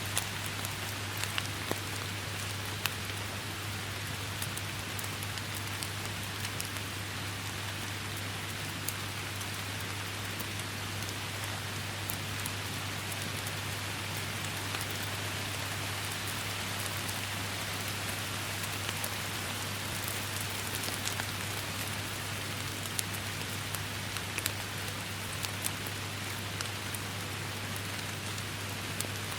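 Steady heavy rain, with many sharp drop hits landing close by over an even wash of rainfall. A steady low hum runs underneath.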